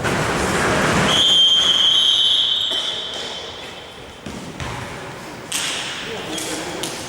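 A referee's whistle blown in one long blast of about two seconds, starting about a second in, over thuds of a bouncing ball and players' voices.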